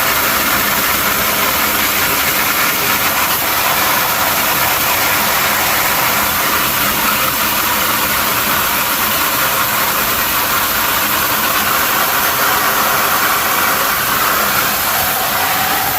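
Garden hose spraying water in a steady, even hiss.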